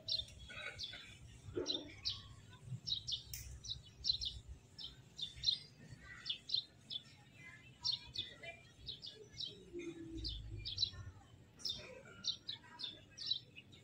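Small birds chirping busily, many short high chirps in quick succession throughout, over a low rumble.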